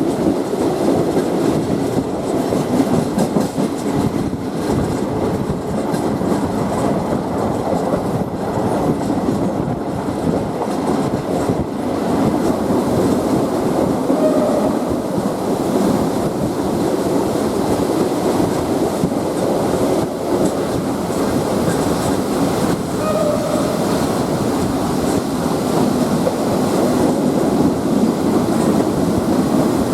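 Passenger train running along the track, heard from aboard: a steady rumble of wheels on rail with clickety-clack. There are two short, faint wheel squeals, about halfway through and about two-thirds of the way in.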